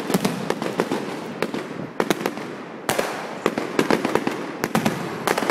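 Fireworks display: volleys of sharp bangs from bursting aerial shells in quick succession, over a steady crackle, with a dense run of bangs near the end.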